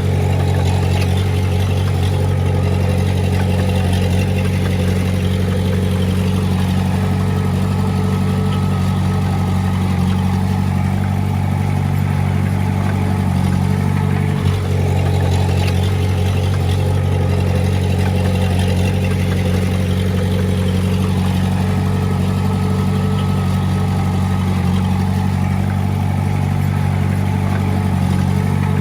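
Heavy-equipment diesel engine running steadily at a constant speed, close and loud, with a brief dip about halfway through.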